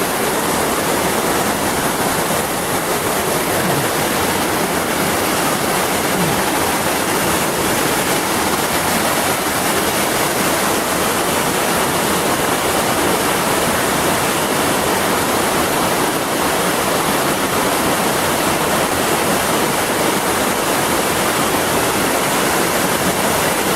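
Waterfalls pouring into a creek: a loud, steady rush of falling water.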